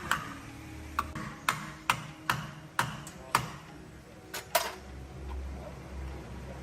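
A series of sharp metal-on-metal taps, about ten, spaced roughly half a second apart, each with a short ring. They stop about five seconds in, leaving a low steady hum.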